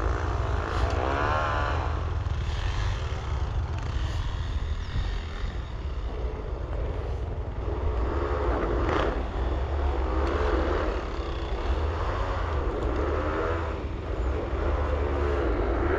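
Motocross/enduro motorcycle engines revving, their pitch rising and falling again and again, over a steady low rumble.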